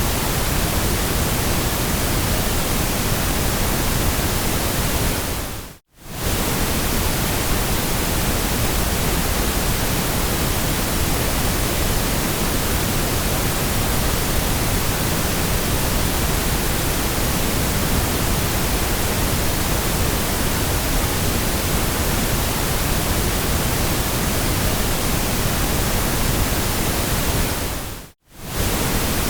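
Steady white noise, an even hiss across all pitches, cutting out for a split second twice: about six seconds in and near the end.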